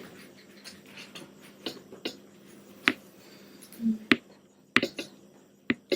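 Pause in a quiet room: a faint steady hum broken by about half a dozen sharp, isolated clicks and taps, with a short low murmur about four seconds in.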